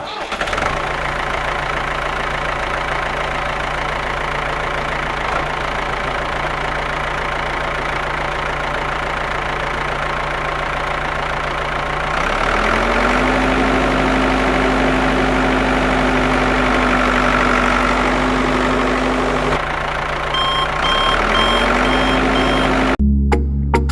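Small DC motor of a homemade model tractor running steadily with a mechanical hum. About halfway through its pitch rises and holds higher, then drops and rises again near the end. A short run of high beeps sounds near the end.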